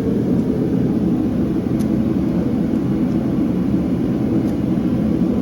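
Steady low roar of a gas forge burning, even and unbroken.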